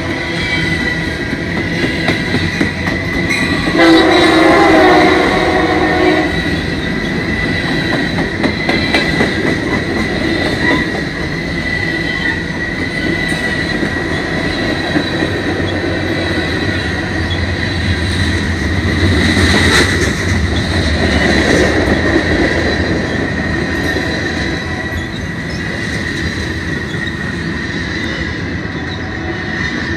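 Freight train cars, mostly tank cars, rolling past close by: a steady rumble of wheels on the rails with a thin high-pitched ring. A train horn sounds for about two and a half seconds, starting about three and a half seconds in.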